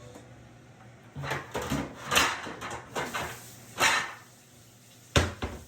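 Metal sheet pan clattering in several bursts as it is put away in a kitchen cabinet or drawer, followed by one sharp knock near the end.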